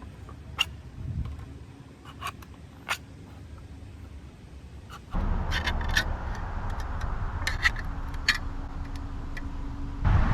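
Scattered clicks, taps and light scrapes of making a tuna sandwich by hand, over a low steady background that gets suddenly louder about five seconds in.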